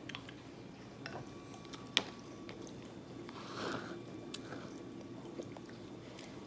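Quiet sounds of people eating ice cream, with a sharp click about two seconds in and a few small ticks.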